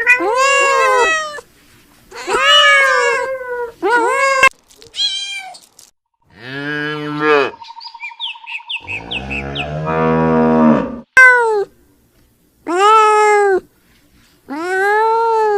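Kittens meowing: a string of short, high, arching meows, about seven in all. In the middle comes a longer, much lower-pitched drawn-out call that rises near its end.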